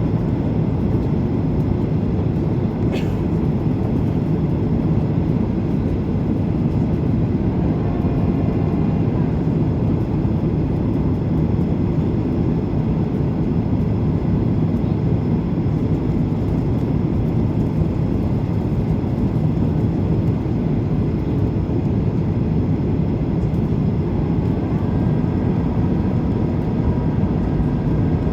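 Passenger jet airliner coming in to land, its engines and rushing air making a steady, unchanging low noise.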